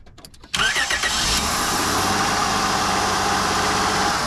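Honda Odyssey 3.5L engine started by its newly fitted starter about half a second in: a short crank with a rising whine, then the engine catches at once and settles into a steady idle. The quick, clean start shows the new starter working.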